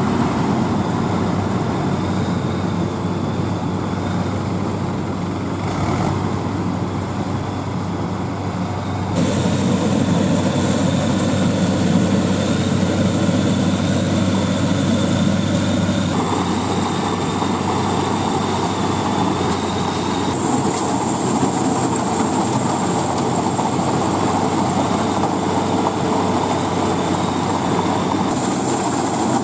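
Diesel engine of farm machinery running steadily, the sound changing abruptly several times as clips are cut together.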